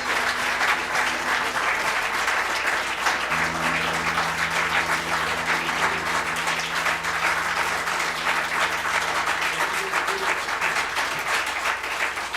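Audience applauding steadily at the end of a song, with a low note from the stage sustaining underneath for several seconds.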